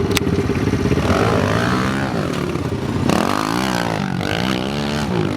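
Small dirt bike engine revving as it is ridden, its pitch rising and falling several times.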